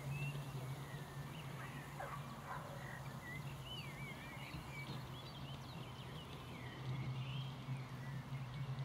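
Birds singing in short wavering, warbling phrases over a steady low hum.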